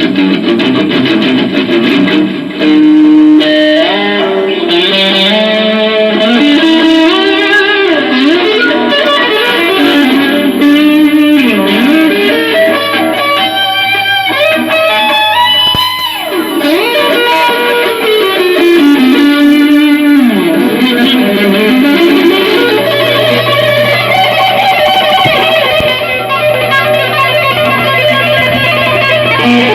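Loud electric guitar music: a lead melody full of bends and slides over a low bass line, which comes in strongly about two thirds of the way through.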